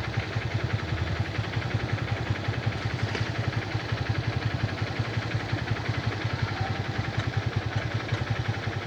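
A vehicle engine running steadily with a fast, even pulse, over a hiss of heavy rain and running water.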